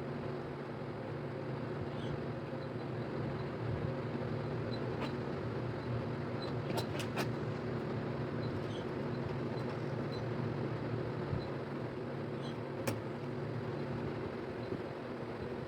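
Steady mechanical hum with a few sharp clicks, twice close together about seven seconds in and once near thirteen seconds.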